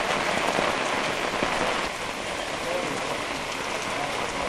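Heavy rain pouring steadily onto a flooded street: an even, unbroken hiss of downpour on water and hard surfaces.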